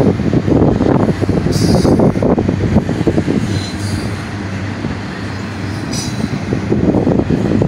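Double-stack intermodal well cars rolling past, a dense rumble and clatter of steel wheels on rail. Short high-pitched wheel squeals come about one and a half, four and six seconds in.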